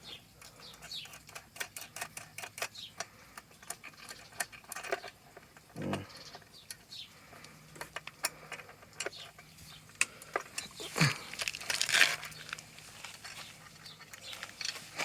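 Hand tools and small metal parts of a motorcycle's rear wheel assembly clinking and clicking irregularly as it is taken apart by hand, with a louder rattle about eleven seconds in.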